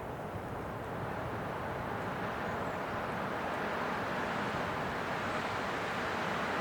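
Winter wind blowing as a steady rushing noise that swells slightly louder over the few seconds.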